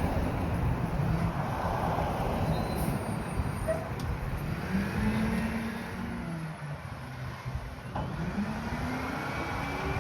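Mack garbage truck's diesel engine running, its pitch rising and falling as it revs, then revving up again near the end.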